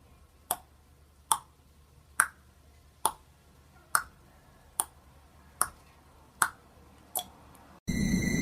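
A series of nine sharp clicks, a little over one a second, evenly spaced. Near the end the sound switches abruptly to a loud steady hiss with several steady high-pitched tones.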